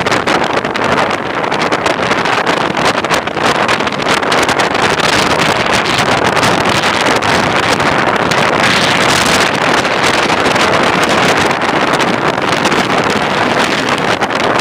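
Hurricane Irene's wind blasting the microphone in a loud, continuous rush of noise that flutters with the gusts, mixed with heavy surf; a stronger, hissier gust comes about eight seconds in.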